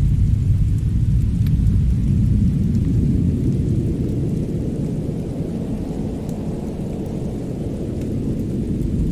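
Fireplace and winter-storm ambience: a steady deep rumble with a few faint, scattered crackles. The rumble eases a little midway and swells again near the end.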